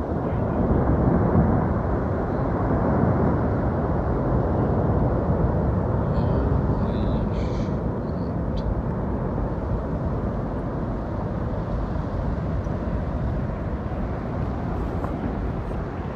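Avalanche rumbling: a continuous deep roar of snow and ice sliding down a mountainside, loudest in the first few seconds and then holding steady.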